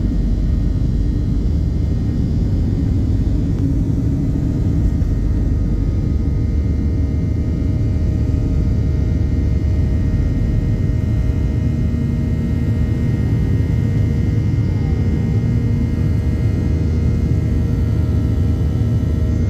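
Steady cabin rumble inside a Boeing 737-800, its CFM56 engines running, with faint steady hums above the low roar.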